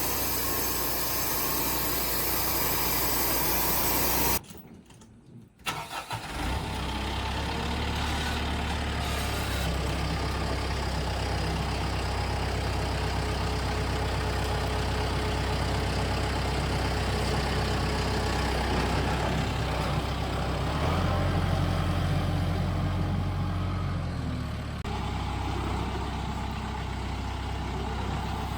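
A loud steady noise that cuts off abruptly about four seconds in, then after a brief near-quiet gap an engine running steadily at idle, its tone shifting a little near the end.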